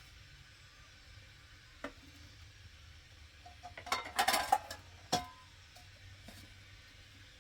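Dishes or utensils being handled: a single knock about two seconds in, a quick cluster of clinks around four seconds, and one sharp ringing clink about five seconds in.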